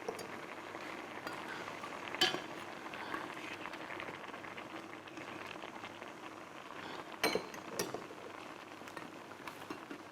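Kitchen food-preparation sounds: a low steady hiss with a few sharp clinks of utensils or dishes, one about two seconds in and two close together around seven seconds in.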